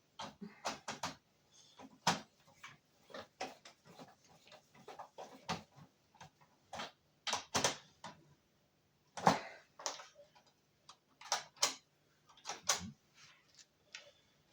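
Irregular sharp clicks and light knocks from small parts and hand tools being handled on a truck instrument cluster, over a faint steady hum.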